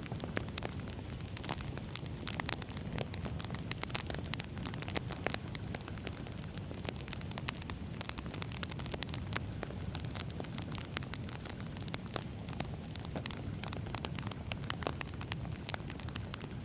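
Wood fire burning with a steady low rumble and frequent irregular crackles and pops of the burning logs.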